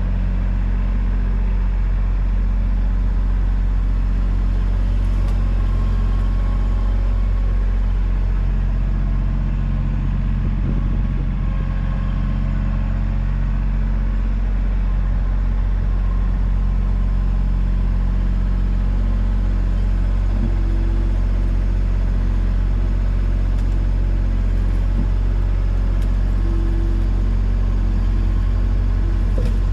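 A large engine running steadily at a constant speed, a low, even rumble.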